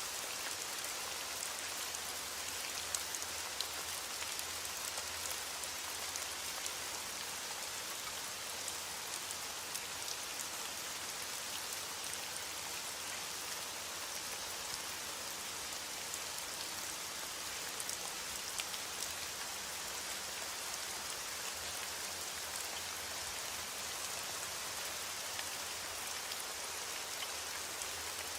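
Steady rain falling: an even hiss of rain with scattered sharper drop ticks.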